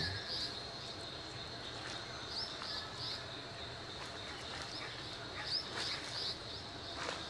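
Outdoor background with a bird repeating a short phrase of three quick high chirps about every three seconds, over a steady high-pitched drone.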